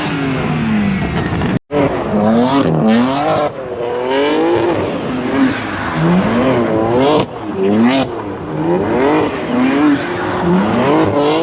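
Car engine revved over and over, the pitch sweeping up and falling back in quick succession, with a short break about one and a half seconds in.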